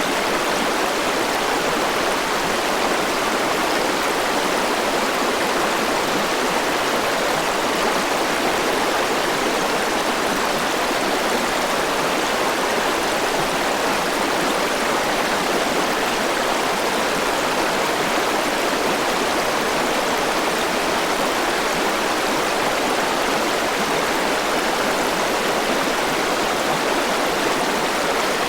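Forest river rushing over rocks: a steady, unbroken wash of flowing water.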